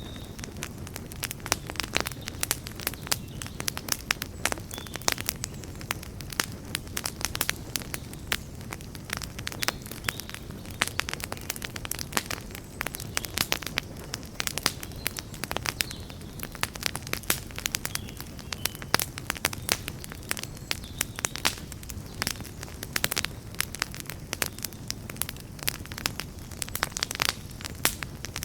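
Campfire burning, with many irregular crackles and sharp pops over a steady low rush of flame.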